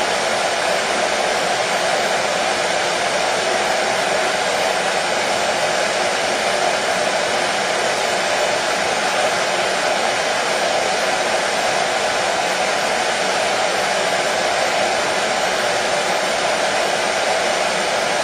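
Hair dryer running steadily, a constant whooshing rush of air with a slight hum and no change in speed.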